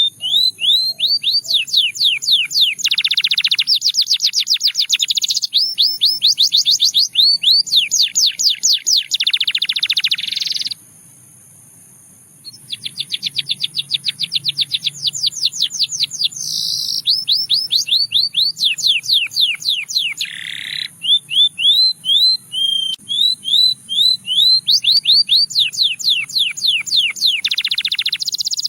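Domestic canary singing: long runs of fast repeated rising notes, trilled tours changing from one to the next, with a pause of about two seconds near the middle.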